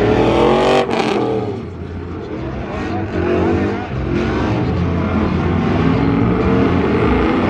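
A truck engine revving hard, its pitch climbing for about the first second. It then eases off and keeps running steadily for the rest of the time.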